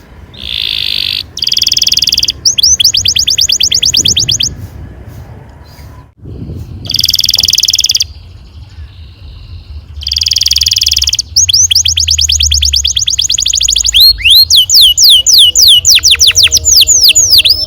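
Domestic canary singing a long rolling song. Dense buzzy rolls come in short phrases separated by brief pauses, alternating with fast trills of rapidly repeated notes, and towards the end a quick run of sharply falling whistles.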